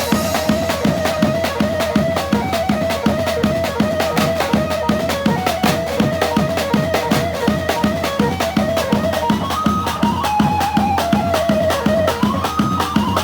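Domki dance music in 6/8: one ornamented melody line that turns up and down over a fast, steady drum beat with a bass drum.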